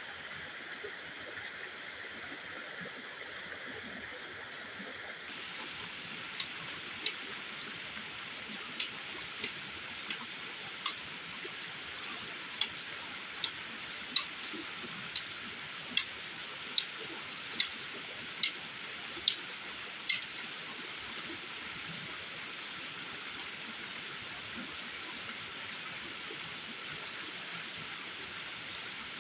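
Steady rushing of water, with a run of about sixteen sharp clicks or knocks, a little under one a second, from about six seconds in to about twenty seconds in.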